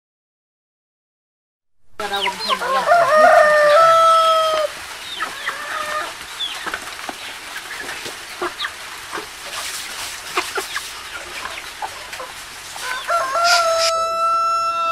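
Rooster crowing twice, about two seconds in and again near the end, each crow ending in a long held note, with short chicken clucks and calls between.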